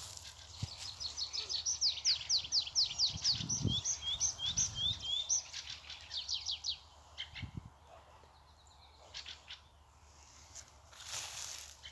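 Woodland songbirds singing: a long run of quick, falling high notes for about six seconds, with a lower phrase of short notes in the middle, then a few scattered chirps before it goes quiet. Two soft low thumps sit under the song.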